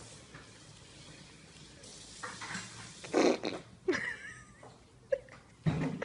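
A fart: a short, loud blast about three seconds in, over faint room hiss, followed by a few brief smaller sounds.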